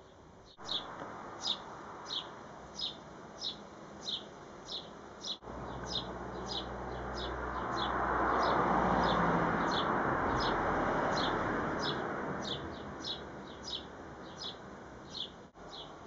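A small bird chirping over and over, single sharp high chirps at about one and a half a second. Under it a broad rush of noise swells to its loudest around the middle and fades again.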